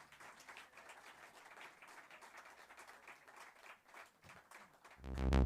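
Audience applauding lightly with scattered claps. About five seconds in, a loud, low pitched note from the band's instruments starts suddenly.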